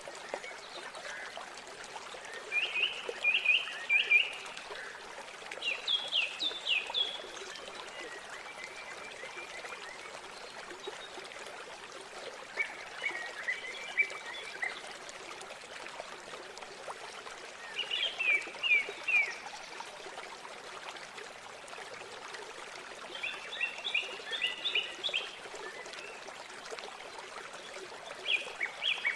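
River water flowing steadily, with a small songbird singing a short phrase of rapid high notes over it about every four to six seconds.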